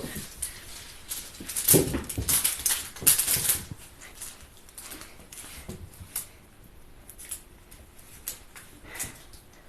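Cats pouncing and scrambling after a crinkly dragonfly toy on a springy wand: the toy's wings rustle and crackle among thuds and scrabbling paws. It is busiest and loudest in the first four seconds, then turns to sparser, quieter rustles and taps.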